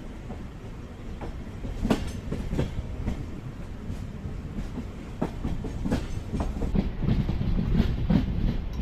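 Passenger train running on the rails: a steady low rumble with irregular sharp clacks as the wheels pass over rail joints.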